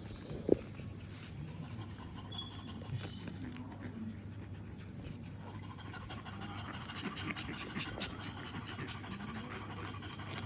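A dog panting softly, with one short, sharp, loud sound about half a second in.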